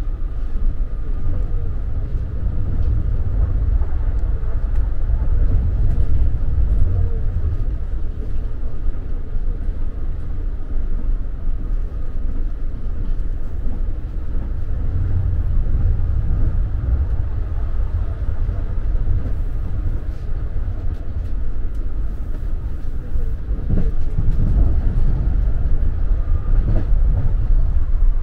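AREX all-stop commuter train heard from inside the carriage while running: a steady low rumble of wheels on rails with a faint steady high tone. It swells louder about halfway through and again near the end.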